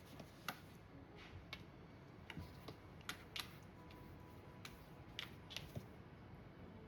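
Faint, irregular light clicks and taps, about a dozen scattered over several seconds, over a quiet room background.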